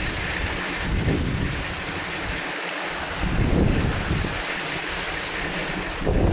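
Heavy rain falling with a steady hiss, while gusts of wind buffet the microphone with deep rumbling surges about a second in, midway, and again near the end.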